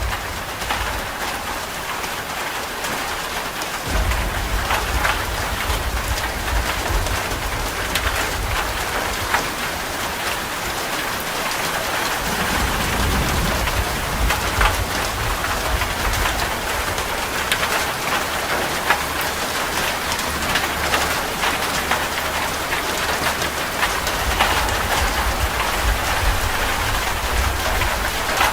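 Steady rain falling, with many separate drops ticking on a surface. A low rumble comes in about four seconds in, fades for a moment near the middle, and returns.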